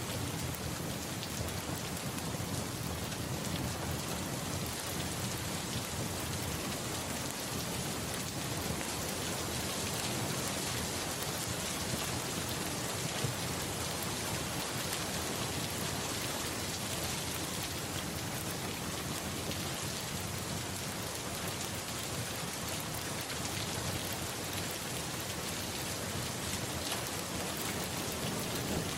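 Steady rain falling on a surface, with a low, continuous rumble of distant thunder underneath.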